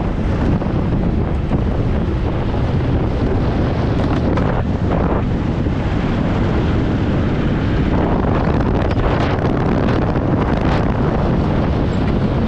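Heavy wind buffeting on the microphone of an engineless gravity race car coasting downhill at speed, with steady tyre and road rumble and scattered knocks and rattles from the chassis.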